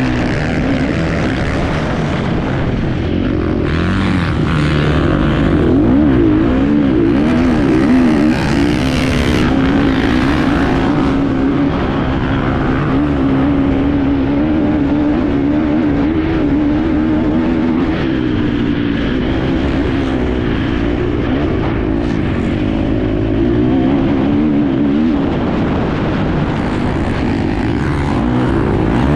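Onboard sound of an enduro motorcycle engine running hard through the race, its pitch rising and falling continuously with the throttle, over rushing wind and riding noise.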